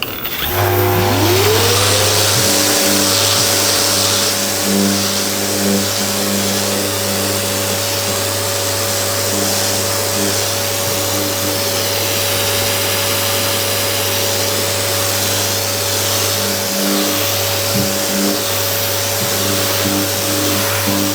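An electric blower motor starting up, its whine rising over about two seconds and then running steadily with a loud rushing of air, while background music plays.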